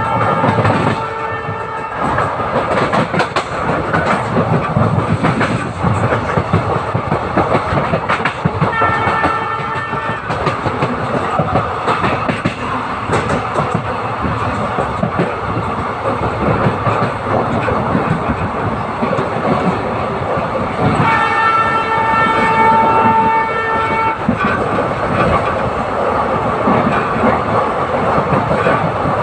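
Express passenger train running, with steady wheel-on-rail clatter heard from aboard. The locomotive's horn sounds briefly about nine seconds in and again for about three seconds from twenty-one seconds in, and the tail of an earlier blast is heard right at the start.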